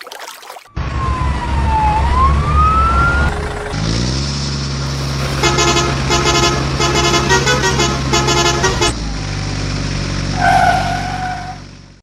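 Dump truck engine running while its horn sounds: a multi-note musical horn plays a quick sequence of notes, then a single honk near the end. Earlier, a whistle-like tone falls and then rises in pitch.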